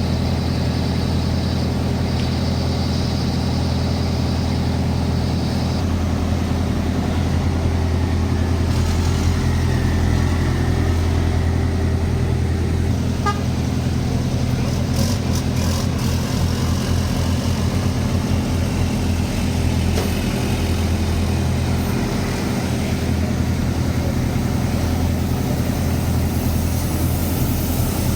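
Heavy truck engines running with a steady low drone, its pitch shifting slightly about six seconds in.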